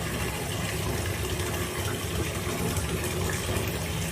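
A steady rushing noise with a strong low rumble, unchanging throughout.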